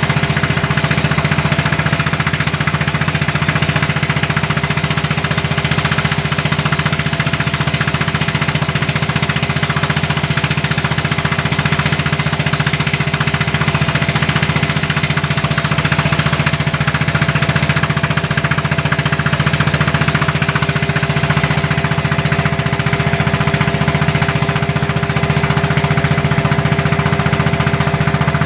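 Single-cylinder diesel engine of a klotok, a small wooden Indonesian passenger boat, chugging with a rapid, even beat.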